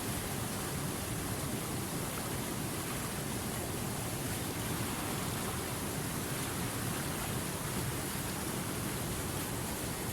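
River water running over rocks in a steady, even rush, with no changes or separate splashes.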